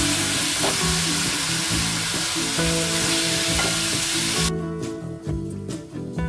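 Chopped onions and tomatoes sizzling in hot oil in a steel kadai as a steel spatula stirs them. The sizzling cuts off abruptly about four and a half seconds in, leaving clicks of the spatula over background music, which plays throughout.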